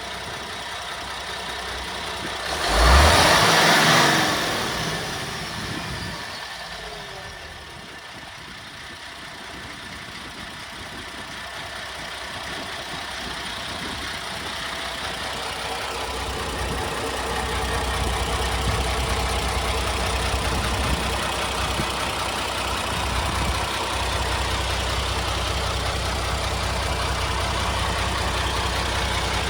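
Isuzu Forward truck's diesel engine idling, with a loud short hiss of air about three seconds in. The idle grows louder and heavier, then runs steadily from just past the halfway point.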